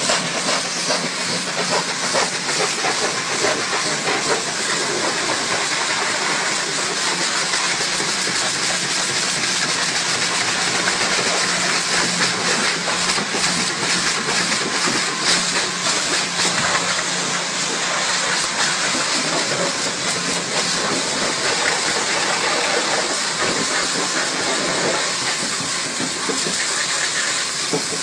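High-pressure car-wash water jet spraying: a loud, steady hiss without a break, with a faint steady hum beneath it.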